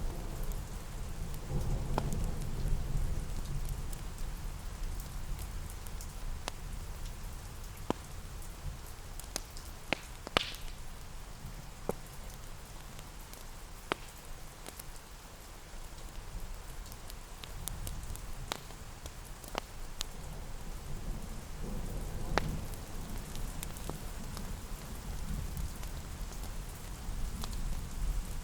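Steady rain falling on a surface, with low rumbles of distant thunder swelling near the start and again about two-thirds of the way in. Scattered sharp clicks are heard throughout.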